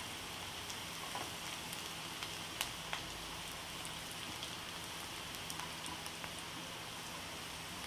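Faint, steady sizzle of oil frying onions, potatoes and peanuts in a kadai, with scattered small pops and crackles as the mustard seeds in the middle start to splutter in the hot oil.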